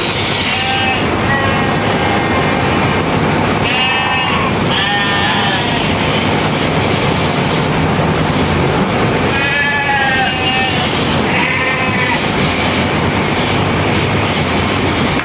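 Sheep bleating, quavering calls that come in two pairs about four and ten seconds in, with fainter bleats near the start, over a loud, steady, continuous mechanical noise.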